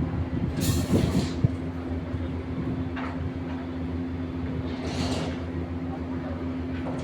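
A machine or engine running with a steady low hum, with short hissing, scraping bursts about a second in and again around five seconds, and a single sharp click in between.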